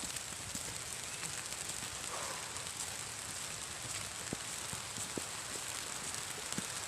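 Steady rain falling, an even hiss with scattered separate drops ticking.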